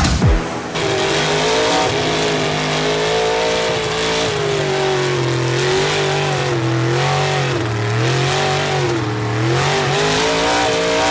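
Mud truck engine revving hard, its pitch rising and falling again and again as the throttle is worked, over a steady hiss.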